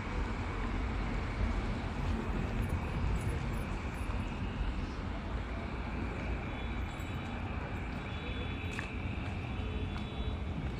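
Steady low rumble of a moving vehicle, with even road noise.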